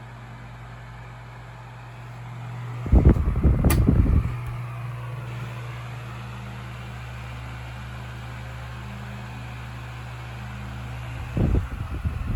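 Vintage 16-inch table fan motor running with a steady low hum. A sharp switch click comes a few seconds in, among loud bursts of low rumble, and the rumble returns near the end.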